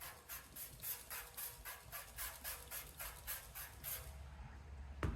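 Hand trigger spray bottle squirting soapy water, a quick run of short hissing sprays about three a second that stops about four seconds in, followed by a single sharp click near the end.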